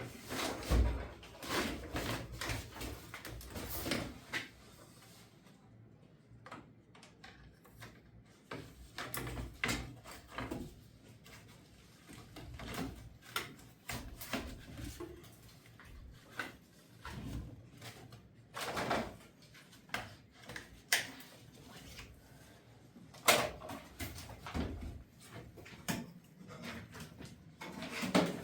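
Irregular knocks, clunks and rattles, with a few louder bangs.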